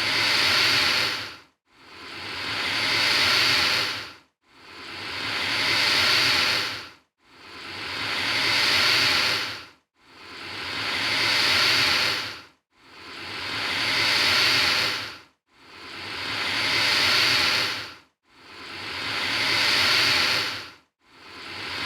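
Alligator hissing, over and over: about eight long, breathy hisses, each swelling and then fading over roughly two and a half seconds, with a brief silence between them.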